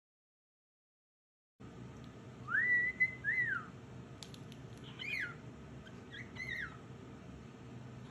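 Silence for about the first second and a half, then a pet bird whistling: one long whistle that rises, holds and falls, followed by a few shorter whistled notes, over a low steady hum.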